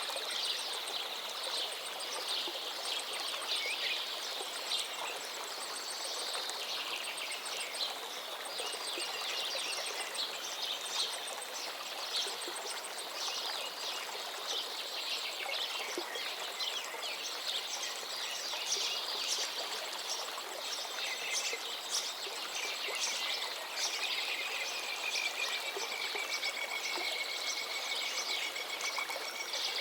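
A forest stream flows steadily, with several songbirds singing over it. A fast, high trill repeats through the first several seconds, and one long, slightly falling whistle comes near the end.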